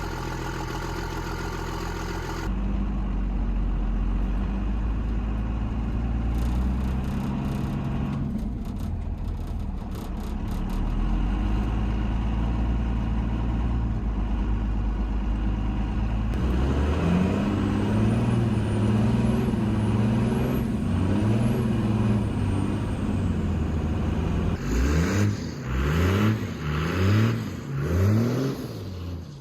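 Pickup truck engine idling, then running with a deeper rumble as its pitch rises and falls. Near the end it is revved in quick repeated blips, about one a second.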